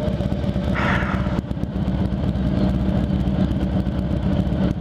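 Motorcycle engine idling steadily, with a brief hiss about a second in.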